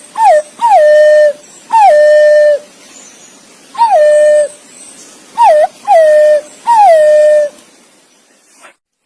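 Green pigeon (punai) calling to its companion: seven clear whistled notes, each sliding down quickly and then held on one level pitch for up to about a second, with short pauses between them.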